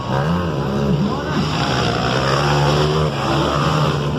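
Motocross dirt bike engines revving up and down, then holding a steady high note as the bikes run the track.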